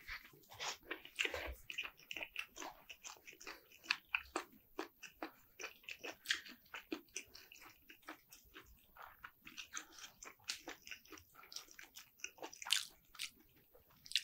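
A person chewing a mouthful of sliced turkey meat: a steady run of soft, wet mouth clicks and smacks.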